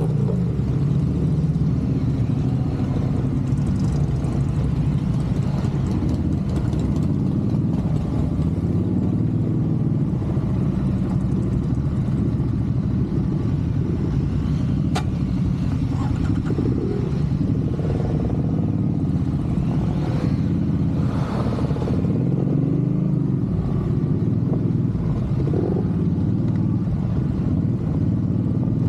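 Motorcycle riding along the road: a steady engine hum mixed with road and wind noise, its pitch rising and falling briefly about two-thirds of the way through.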